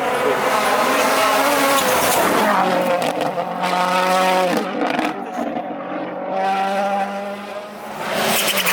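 A World Rally Car's turbocharged 1.6-litre four-cylinder engine at full throttle on a rally stage, the revs climbing and then dropping sharply at gear changes and lifts, fading briefly near the end before rising again.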